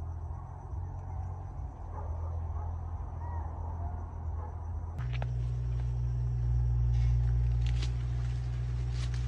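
An engine running steadily with a low hum. About five seconds in the sound changes abruptly and gets louder, with a few sharp clicks on top.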